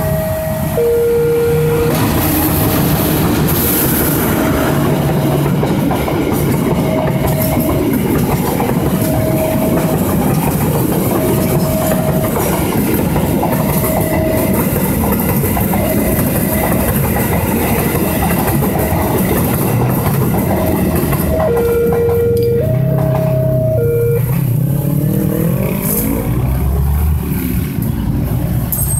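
Diesel-hauled passenger train passing close by, a steady rumble of wheels on the rails. A level-crossing warning bell repeats a short tone every second or two, and the train horn sounds at the start and again about 22 seconds in. Near the end, engine sounds rise in pitch as road traffic moves off.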